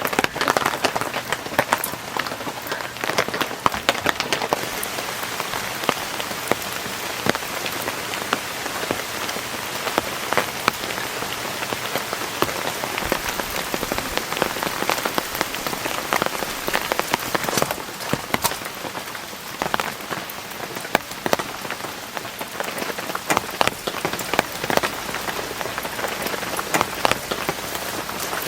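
Heavy rain falling steadily, with a constant hiss and many individual drops striking close by.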